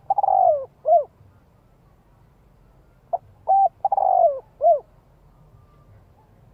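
Spotted dove cooing: the end of one phrase at the start, then a full phrase about three seconds in, made of two short coos, a long falling coo and a short final coo.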